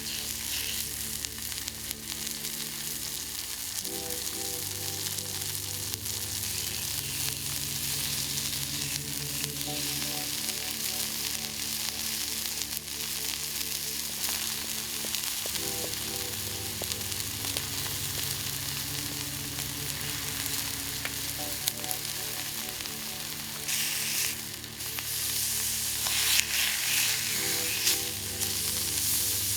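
Steady sizzling and crackling at a small campfire fire pit, under background music whose chords change every few seconds.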